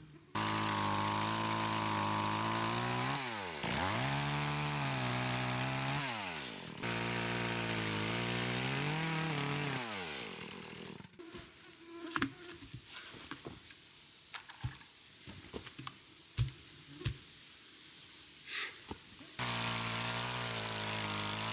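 A small engine running steadily, its pitch dropping sharply and recovering twice, as if under load. It cuts out partway through, leaving scattered knocks and clicks, then starts again abruptly near the end.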